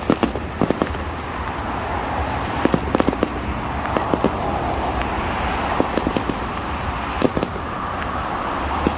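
Fireworks bursting: sharp bangs and crackles, single and in quick clusters every second or so, over a steady background rumble.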